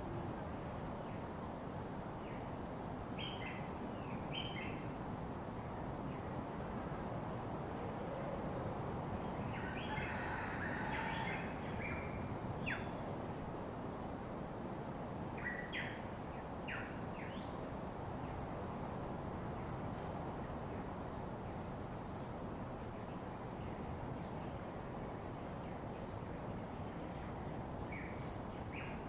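Wild birds calling in short chirps, in a few scattered bunches, over a steady background rush and a constant thin high-pitched whine.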